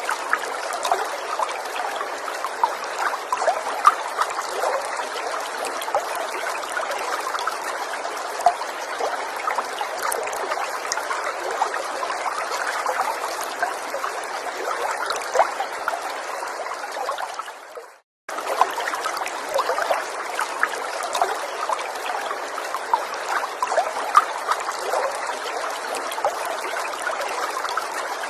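Small forest stream trickling and bubbling steadily. About two-thirds of the way through, it fades out to a moment of silence and then comes straight back.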